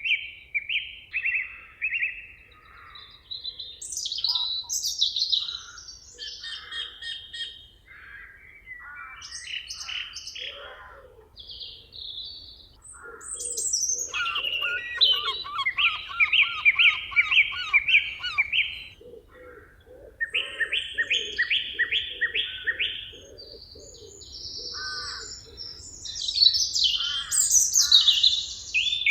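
Several songbirds singing at once in a forest, a chorus of overlapping phrases and fast trills, with a lower repeated call joining in partway through.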